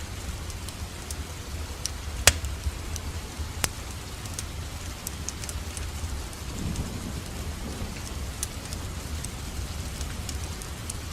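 Steady rain falling with a wood fire crackling over it: a continuous hiss dotted with small ticks and a few sharp pops, the loudest a little over two seconds in.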